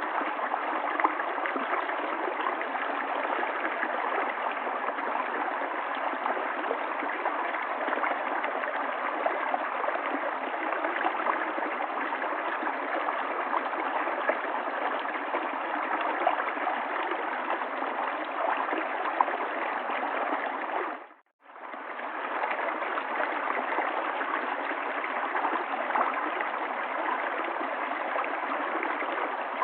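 River water flowing in a steady rush. About three-quarters of the way through it fades out for a moment and comes back.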